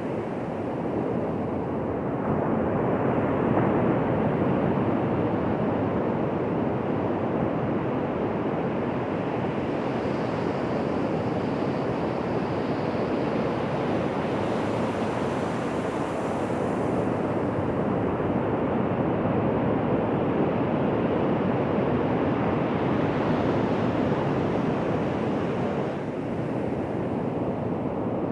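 Ocean surf: waves breaking and washing on a beach as a steady rushing wash that slowly swells and eases.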